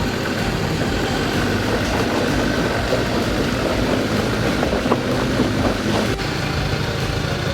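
Off-road 4x4 engine running steadily under load during a strap recovery pull of a stuck truck, with a rougher crackling layer that cuts off abruptly about six seconds in.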